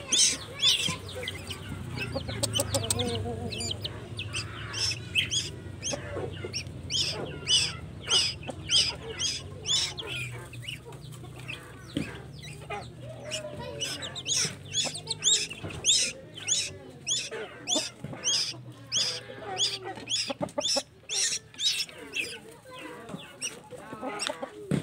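A tuwu bird nestling calling over and over while being hand-fed: short, high-pitched cheeps, about two to three a second, typical of a hungry chick begging for food.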